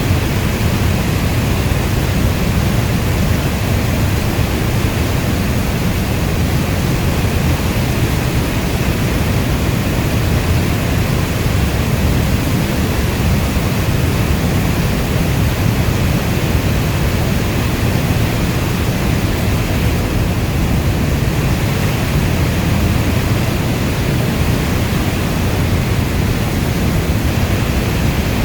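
Steady heavy rainfall: a dense, even wash of noise, deepest and strongest in the low end, with no thunder and no single drops standing out.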